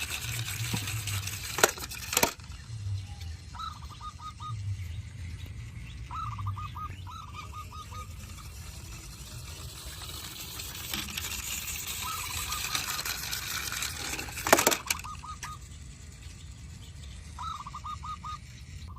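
A bird call of five or six quick notes, repeated every couple of seconds, with a few sharp clicks or knocks, two near the start and one after the middle.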